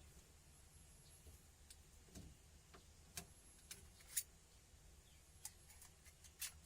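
Near silence with a few faint, irregular clicks and taps, the sharpest about four seconds in and another near the end.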